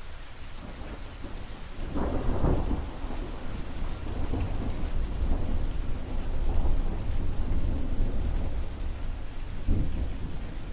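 Steady rain falling, with a low rumble of thunder that builds about two seconds in and rolls on in surges.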